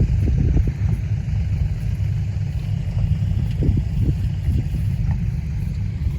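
Heavy diesel dump-truck engine running with a steady low rumble.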